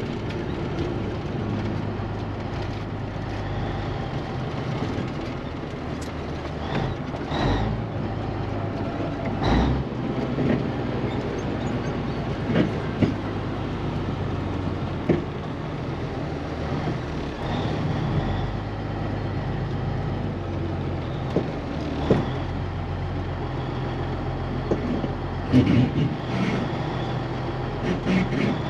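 Cabover semi truck's diesel engine running steadily as the truck drives, with occasional short clunks and rattles.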